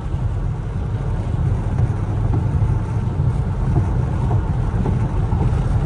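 Muffler-deleted V8 exhaust of a Chevrolet Camaro SS, heard from inside the cabin while driving: a steady, deep rumble and drone. Its loudness wavers slightly but stays level.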